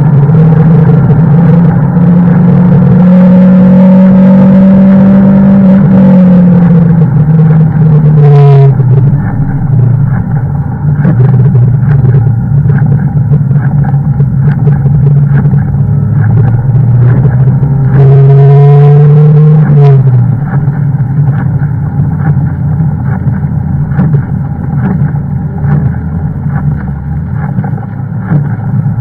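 Toyota Celica ST202's 2.0-litre 3S-FE four-cylinder engine, loud from inside the cabin at track speed. Its note climbs slowly under load, drops sharply about eight seconds in, then climbs strongly again and falls away about twenty seconds in.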